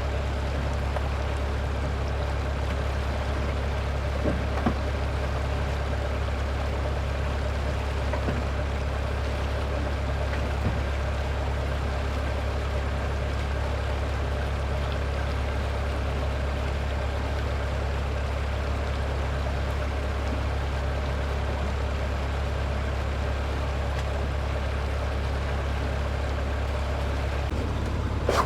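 A motor running steadily with a low, even hum, and a few faint clicks now and then.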